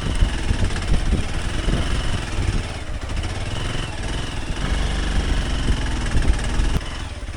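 Hero Xpulse 200 Pro's single-cylinder engine running steadily, with rumble on the microphone.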